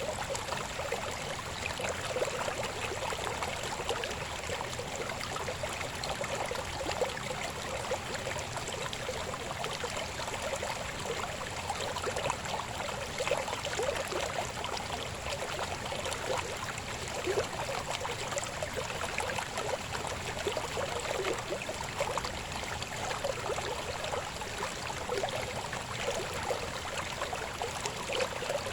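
River water babbling and gurgling over rocks: a steady rush of flowing water with many small splashes.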